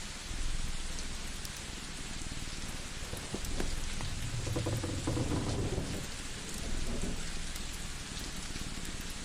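Rain-and-fireplace ambience: a steady hiss of rain with faint scattered crackles, and a low rumble of thunder swelling about four and a half seconds in, then fading about a second and a half later.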